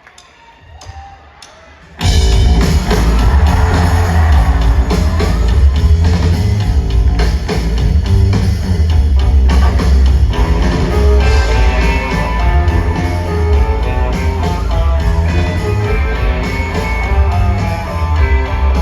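Rock band playing live, the instrumental intro of a song: quiet at first, then about two seconds in the full band comes in loud with electric guitar, heavy bass and drums, and keeps playing without vocals.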